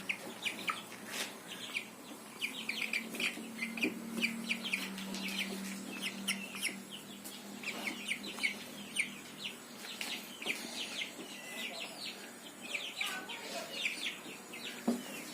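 Aseel chickens clucking, with a steady stream of short, high chirps throughout.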